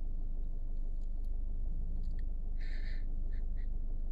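Steady low rumble of a car heard from inside the cabin, the engine running. About two and a half seconds in comes a brief sniff, followed by two faint smaller ones.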